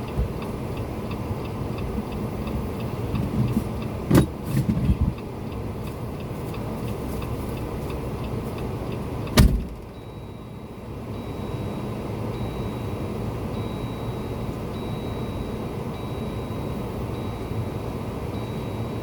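A vehicle engine running steadily, with a few knocks about four to five seconds in and a loud thump about nine seconds in, after which it is a little quieter.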